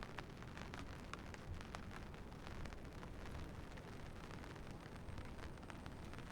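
Steady rain falling, with many scattered drops ticking sharply on nearby surfaces over a constant low rumble.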